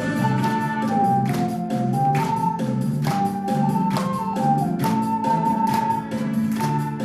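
Ocarina playing a trot melody in clear held notes over a recorded backing track with bass and a steady drum beat.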